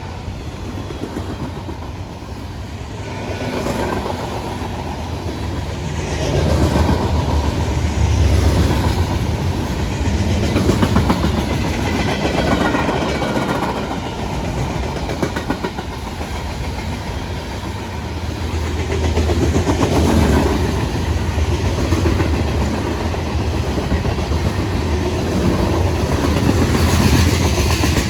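CSX freight train M573 rolling past, its wheels clattering over the rail joints above a steady low rumble that swells and eases as the cars go by.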